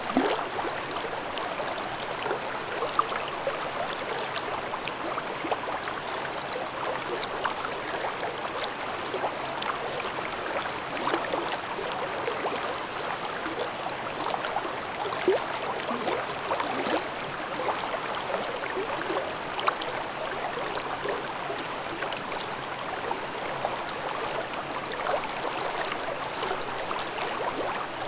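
A shallow mountain stream babbling steadily over rocks, with small splashes and gurgles scattered through the flow.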